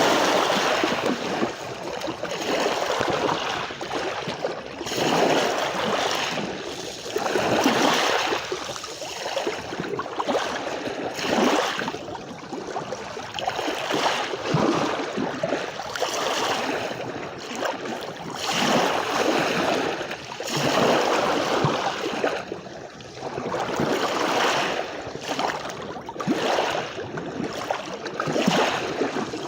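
Small waves washing onto a beach and draining back, a steady rush of water that swells and ebbs every few seconds.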